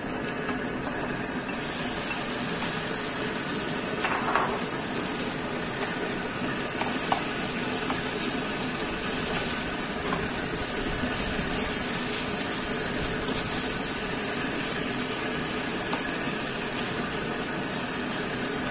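Soy-and-calamansi-marinated chicken pieces frying in hot oil with garlic and onion in a nonstick wok, a steady sizzle that grows louder about a second and a half in as the chicken hits the pan. A few light clicks of the spatula against the pan come early on.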